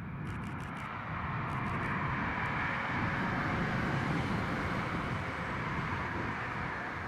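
Class 43 HST with Mk3 coaches passing at speed: diesel power car and wheel-on-rail noise that builds from about a second in, peaks around four seconds in and then begins to fade as the trailing power car goes by.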